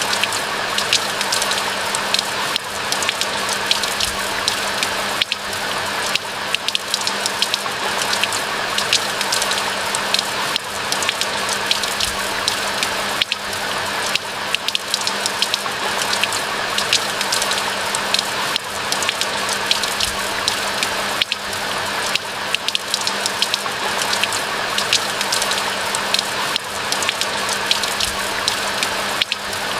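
Steady rain falling in a pine forest: a continuous hiss with dense, fine patter of individual drops.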